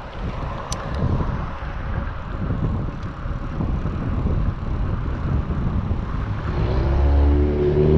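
Wind buffeting the action camera's microphone while cycling, a rough rumbling hiss. Near the end a motor vehicle's engine comes in with a steady low hum, growing louder.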